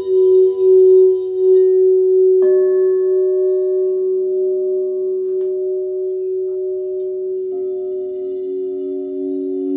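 Crystal singing bowls ringing in long, steady, overlapping tones. A new bowl tone enters sharply about two and a half seconds in, and another takes over about three quarters of the way through.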